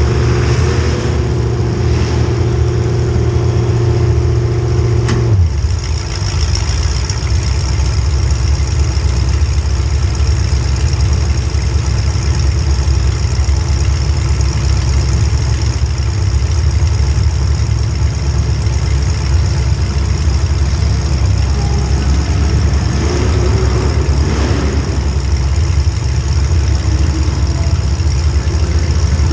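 Small-block Chevy V8 in a demolition derby car running hard, heard from on board. It holds a steady high-revving note for about five seconds, then a brief knock is heard and the engine drops to a rough, lower rumble that carries on.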